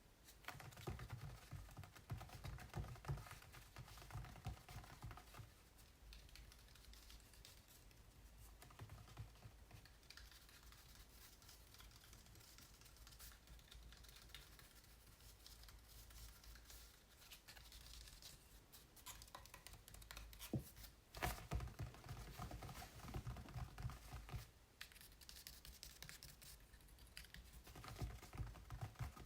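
Fingers tapping and scratching on acrylic paintings on canvas: quick, irregular runs of soft taps, with quieter stretches of tracing between. The tapping is busiest in the first few seconds, again about two-thirds of the way through, and near the end.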